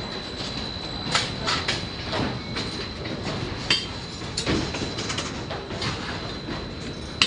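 Construction-site work noise: a steady mechanical hum with a thin, high, steady tone, broken by irregular clanks and knocks, one sharp knock near the end.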